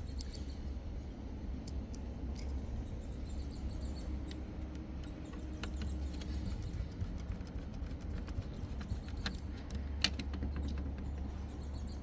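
Small plastic clicks and scratches of washing machine control-panel parts being handled and fitted back together by hand, with one sharper click about ten seconds in, over a steady low hum.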